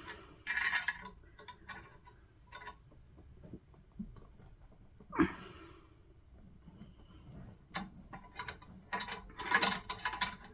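Metal hand tools clinking and knocking while working on a seized threaded fitting, with one louder clatter about five seconds in and a quick run of clicks near the end.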